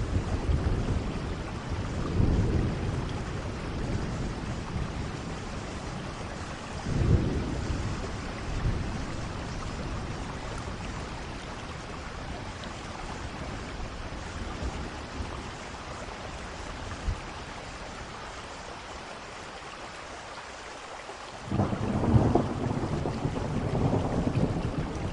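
Steady rainfall with rolls of thunder in a thunderstorm. Low rumbles swell and fade twice early on, and a louder roll of thunder starts suddenly near the end.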